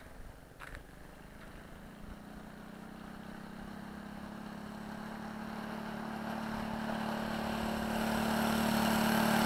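Minibike engine running at a steady pitch, growing steadily louder as it comes closer. A couple of faint clicks in the first second.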